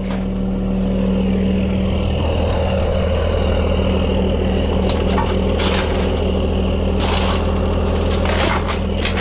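Heavy truck engine idling steadily, with a few short noisy bursts about halfway through and near the end.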